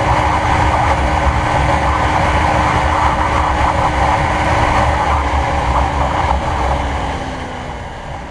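Motorcycle with a slip-on Kalkal exhaust riding steadily, the engine note holding even; near the end the engine eases off, its pitch and loudness falling.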